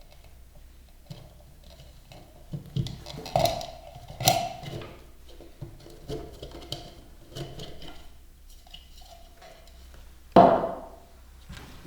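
Hard objects being handled and set down: a run of knocks and clinks, then one loud knock with a short ring about ten seconds in.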